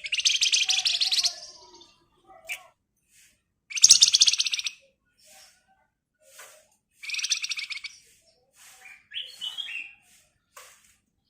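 Songbird sold as a 'flamboyan' (wergan Jawa) singing its fast, rattling trill ('ngebren') three times, each burst about a second long, near the start, about 4 s in and about 7 s in. Short, softer chirps and a few stepped whistled notes come in between.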